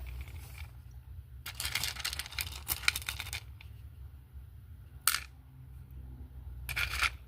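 Small metal scraps from a gold dredge's magnetic concentrates clinking and rattling as they are sorted by hand. There is a run of clinks lasting about two seconds, then two short clicks later on.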